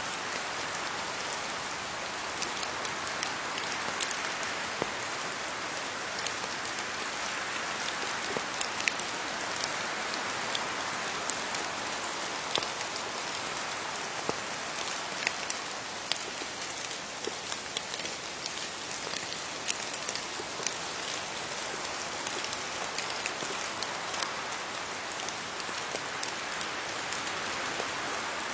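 Steady rain falling on leaves: an even hiss of rainfall with many scattered, sharper drips.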